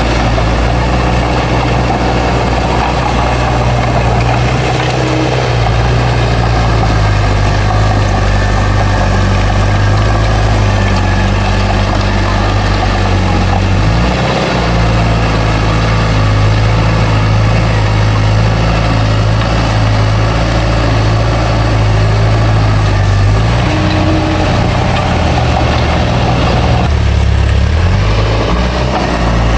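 A bulldozer's heavy diesel engine running loud and steady. Its pitch shifts a few times as the engine speed changes: about five seconds in, with a brief dip in the middle, and twice near the end.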